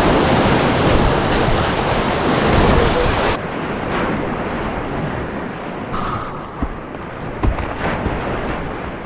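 Rushing whitewater of a flooded river rapid, a loud, even roar of churning water with wind buffeting the microphone; about three and a half seconds in it suddenly turns duller and more muffled, with a few low thumps after.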